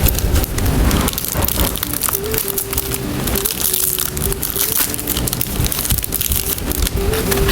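Packaging crinkling and rustling as purchases are unwrapped by hand: a dense, continuous run of crackles and small clicks.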